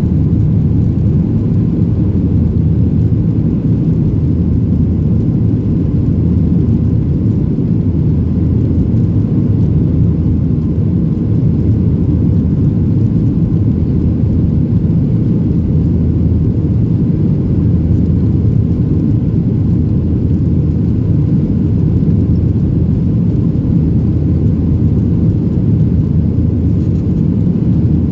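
Cabin noise of a Boeing 737-700 heard from a window seat: its CFM56 engines and airflow make a loud, steady low rumble that holds level throughout.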